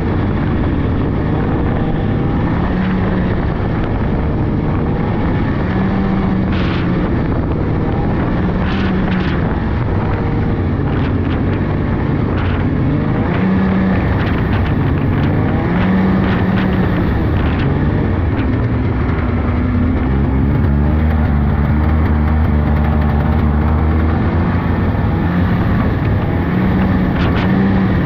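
Polaris 600cc two-stroke snowmobile engine running under way on a trail, its pitch rising and falling with the throttle, with a few short clicks over it.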